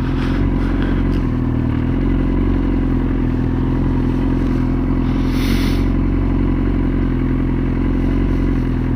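Motorcycle engine running steadily at low revs, with an even, unchanging note. A brief hiss comes about five and a half seconds in.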